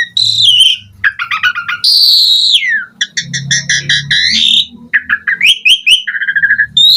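Asian pied starling singing a loud, varied song of clear whistles, rapid chattering note trains and long falling glides.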